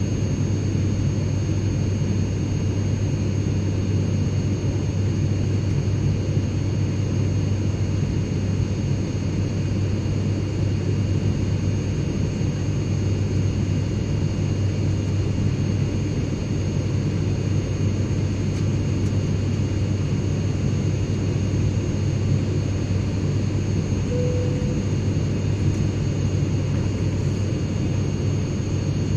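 Airplane cabin interior noise: a steady, even low rumble with faint thin high whines above it, unchanging throughout.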